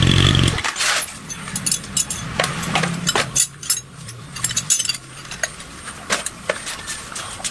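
A loud running engine or machine cuts off abruptly about half a second in. It is followed by irregular small clicks and clinks of hand tools against metal engine parts.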